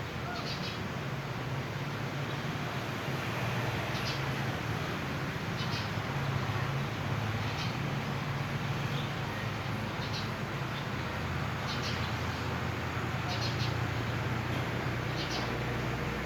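A bird giving short, high chirps, repeated every second or two over a steady background hiss and low hum.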